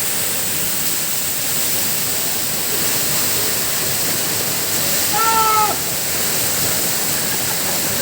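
Waterfall: a steady, dense rush of falling water. About five seconds in, one brief pitched call, half a second long and falling slightly, sounds over it.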